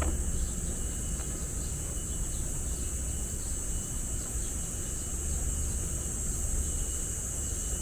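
Steady high-pitched drone of insects, likely crickets or cicadas, over a constant low rumble of city traffic.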